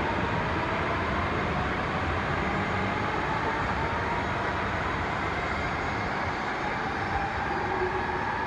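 E5 series Shinkansen pulling out and accelerating away, its motor whine rising slowly in pitch over a steady rumble.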